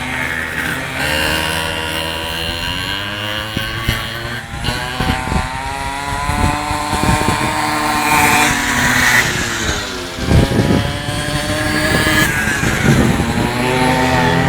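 Several minimoto pocket-bike engines racing, their high-pitched notes overlapping and gliding up and down as the bikes rev and pass, with a loud swell about ten seconds in.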